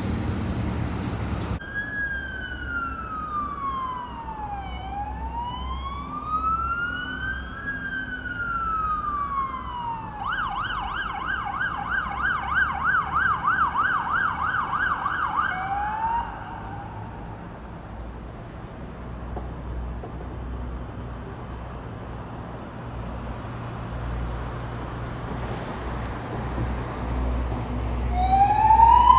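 Fire truck siren sounding a slow wail that rises and falls about every three seconds, then switching to a fast yelp about ten seconds in for some six seconds. The siren then stops and a low engine rumble carries on, until a new wail starts rising near the end.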